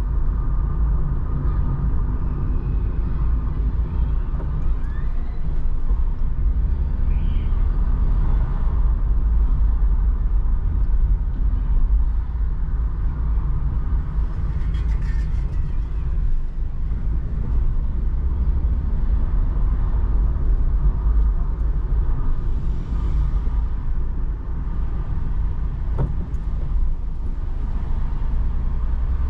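Steady low rumble of a car driving, heard from inside the cabin: engine and tyre noise on a rain-wet road.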